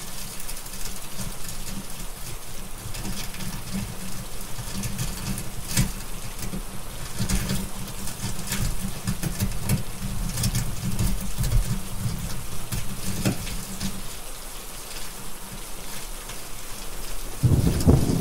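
Steady heavy rain hissing, with scattered sharp ticks and a low rumble underneath. A louder, deep roll of thunder starts near the end.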